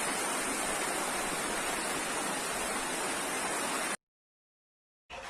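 Steady rushing of fast-flowing floodwater, cutting off suddenly about four seconds in. After a second of dead silence, a quieter, fainter flow of water starts near the end.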